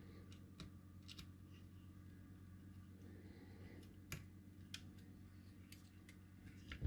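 Faint, sparse clicks and ticks of small hand tools and component legs being worked at a kit circuit board, over a low steady hum. The loudest click comes near the end.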